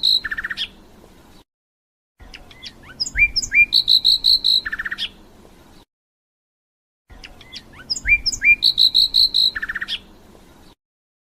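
European goldfinch singing: the same short twittering phrase repeated three times, each made of quick rising slurs, a run of about five fast high notes, then a short lower buzzy trill, separated by about a second of dead silence.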